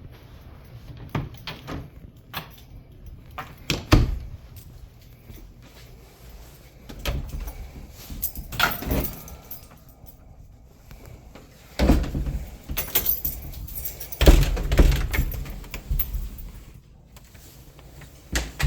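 A series of irregular clicks, knocks and heavier thumps, the loudest about four seconds in, near twelve seconds and again around fourteen to fifteen seconds.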